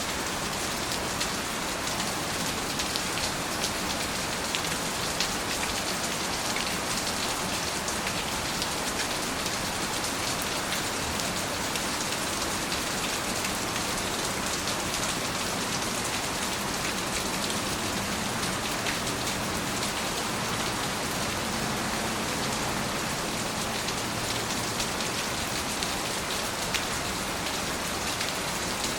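Steady rain falling on a surface, an even hiss with many fine drop ticks and no let-up.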